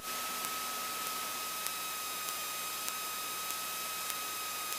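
Steady hiss with a faint high steady whine and light ticks roughly every half second or so: the line noise of the aircraft's intercom and radio audio feed between transmissions.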